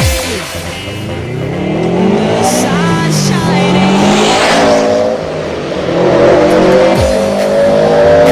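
Subaru Impreza turbo's flat-four engine revving hard and pulling up through the gears, its pitch climbing, easing off about five seconds in, then climbing again.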